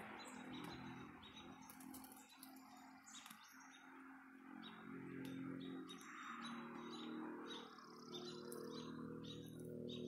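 Small birds chirping repeatedly, short high notes over a low steady hum.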